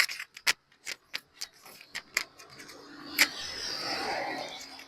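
Handling noise on the phone's microphone: irregular sharp clicks and knocks as the phone and its mount are fumbled, with a brief swell of rushing noise a little past halfway.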